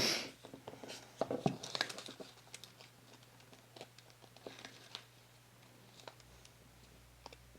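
Paper and card being handled while gluing a junk-journal pocket: a sharp rustle at the start, a cluster of crinkles and taps about a second in, then only sparse small ticks.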